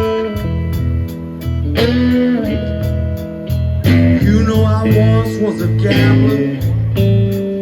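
Blues guitar playing an instrumental passage: picked lead notes with string bends over steady low bass notes.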